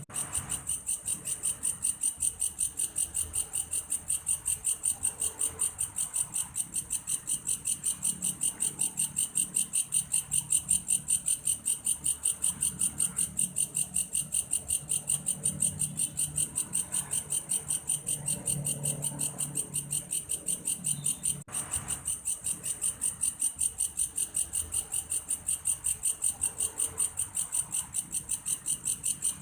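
Belalang kayu, a grasshopper-type insect, stridulating in a steady, fast, shrill pulsed trill much like a cricket's, several pulses a second, over a faint low rumble.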